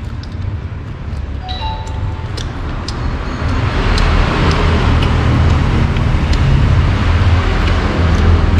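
Road traffic: a low engine rumble, with a vehicle passing close that swells to its loudest about halfway through. Scattered light clicks and a brief short tone come near the start.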